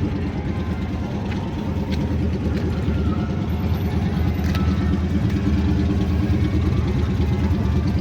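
A car engine idling nearby with a low, pulsing rumble, getting a little louder about two seconds in.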